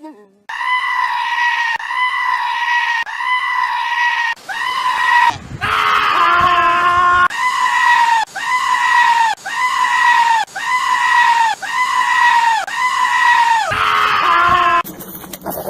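A goat giving a long run of near-identical high-pitched calls, each about a second long and dropping in pitch at its end, about one call a second. A lower, rougher bleat breaks in about five seconds in.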